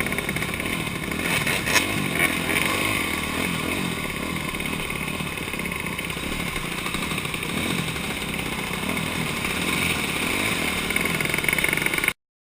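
Dirt bike engine running under way on a motocross track, its pitch rising and falling with the throttle, heard from an on-board action camera with wind and rattle noise. A sharp click about two seconds in; the sound cuts off suddenly near the end.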